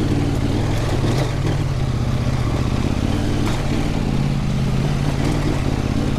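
Husqvarna Norden 901 adventure motorcycle's parallel-twin engine running at a steady, moderate throttle while riding, with a couple of brief clicks.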